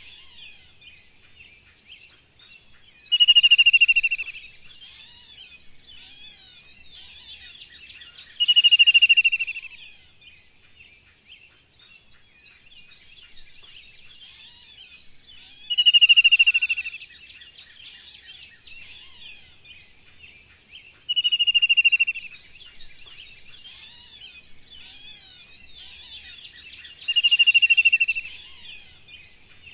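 Bird calls: a loud, clear whistled call about a second long, sliding slightly down in pitch, comes five times at irregular intervals over a steady background chorus of many small, quick chirps.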